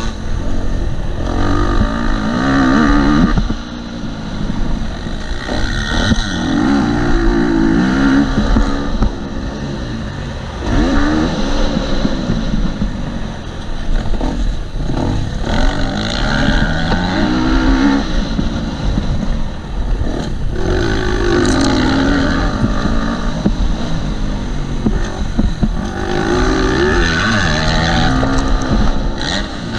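A KTM 250 SX-F four-stroke single-cylinder motocross bike's engine, ridden hard. It revs up and falls back again and again, rising and falling in pitch every few seconds as the throttle is opened and shut.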